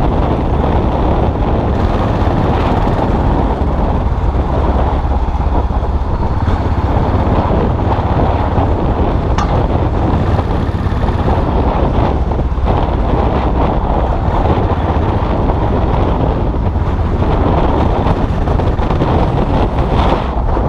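Custom motorcycle engine running steadily while riding, mixed with heavy wind buffeting on the microphone.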